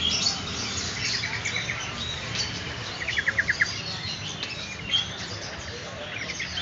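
Many caged songbirds chirping together over a steady low background hum. About three seconds in, one bird gives a quick, louder run of about six sharp repeated notes.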